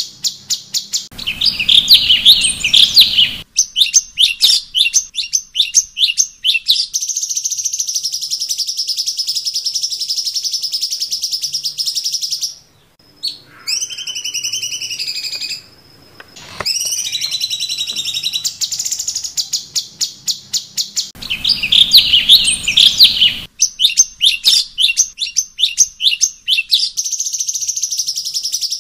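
Cucak cungkok bird singing: rapid runs of sharp, high chirps and fast ringing trills. Midway it breaks off briefly for a few sliding whistled notes, then the chirp runs return.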